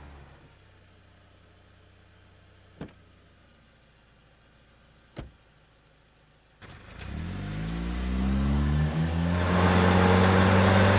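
A small car's engine fading as it drives away, then quiet with two short faint clicks. About six and a half seconds in, a car engine comes in and accelerates, its pitch rising, then settles into a steady loud drone.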